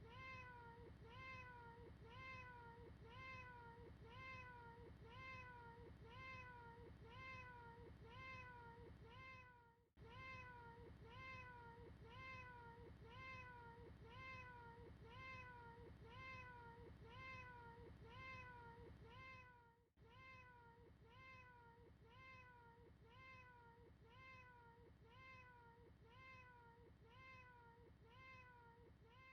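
A cat's short meow, repeated over and over about twice a second in an even loop. Each call bends up then down in pitch. The sound is faint and dips out briefly at about ten-second intervals.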